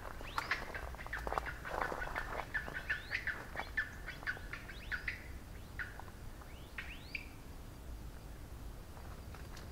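Birds calling in the trees: a busy run of short chirping calls, many with quick rising sweeps, that thins out after about seven seconds.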